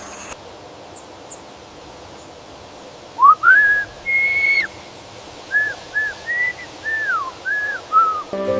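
A bird whistling a run of clear, pure notes, some sliding up and some falling away, starting about three seconds in and going on for about five seconds.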